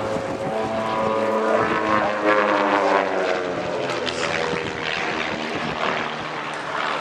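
Van's RV-8 light aircraft's piston engine and propeller drone, its pitch sliding down in the first few seconds as it passes, then a rougher, noisier run.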